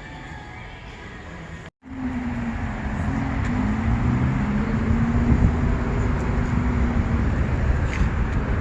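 Quiet background music, cut off about two seconds in by a brief dropout, then a car engine running loudly with a low rumble and a slightly wavering hum.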